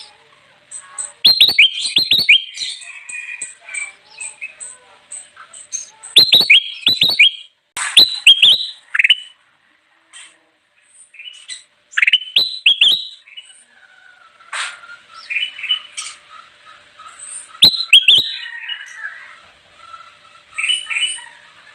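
Kutilang emas (a bulbul) singing loud short phrases of sharp, clear whistled notes, a burst every few seconds, with faint high chirps repeating steadily behind it in the first half.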